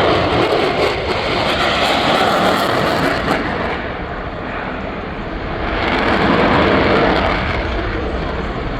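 An F-22 Raptor's twin F119 jet engines in flight: a loud, continuous jet rush that eases about four seconds in, then swells again as the jet passes once more.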